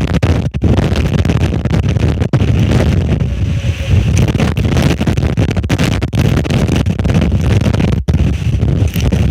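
Storm wind buffeting the microphone: a loud, continuous low rumble with hiss above it, broken by a few brief sharp drops in level.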